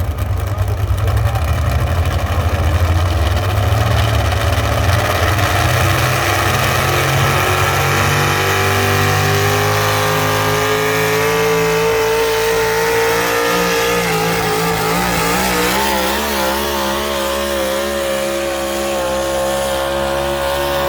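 Competition pulling tractor's engine at full throttle under load on a pull: a deep rumble at first, then its pitch climbs steadily over several seconds and holds high, wavering slightly.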